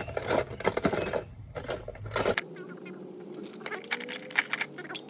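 Metal sockets and wrenches clinking and rattling in a run of sharp clicks, as loose tools are sorted through for the right size. A low background hum cuts off suddenly about halfway through.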